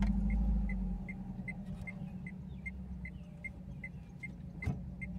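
Small manual car's engine running low and steady while it is held on an uphill slope without pulling away, with a heavier low rumble in the first second that then eases. A faint high beep from the car repeats about two and a half times a second throughout, and there is a single click a little before the end.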